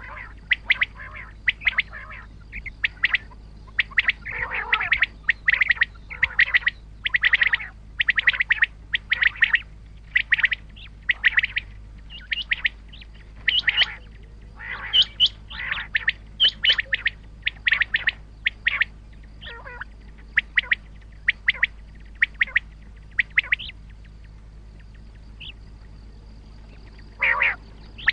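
Common quail calling: many short, sharp calls given in quick clusters, falling quiet for a few seconds near the end before a last burst, over a faint steady low hum.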